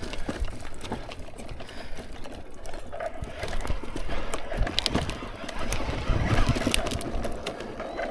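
Mountain bike riding over wet roots and rocks: irregular clicks and rattles from the bike's drivetrain and frame over a low rumble.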